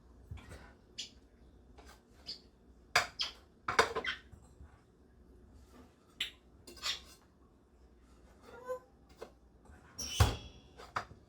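Intermittent clinks and knocks of dishes and kitchen utensils being handled while cooking, with the loudest knock about ten seconds in.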